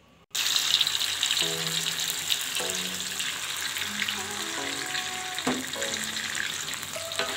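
Blended chilli-and-spice paste frying in hot oil in a wok: a steady sizzle with the clicks and scrapes of a metal spatula stirring it. The sizzle cuts in suddenly after a moment of silence at the start.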